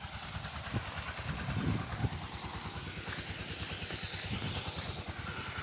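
A small engine running steadily at a low, even speed, with a fast, regular firing beat.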